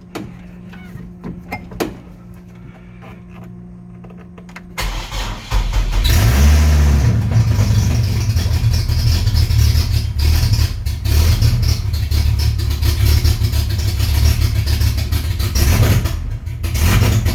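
An electric fuel pump hums steadily, then the Chevrolet Colorado's 3.7-litre inline-five cranks about five seconds in, catches, revs briefly and settles into loud running. It is the engine's first start after ten months sitting, with no exhaust fitted, and it is a little loud.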